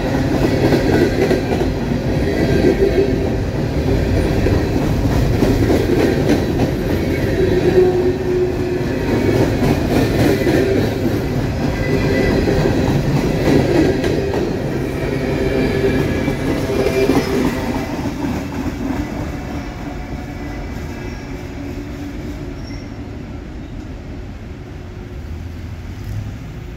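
Empty coal hopper cars of a freight train rolling past at close range: steel wheels clacking over the rail joints, with a steady squeal from the wheels. It grows gradually quieter over the last third as the end of the train goes by.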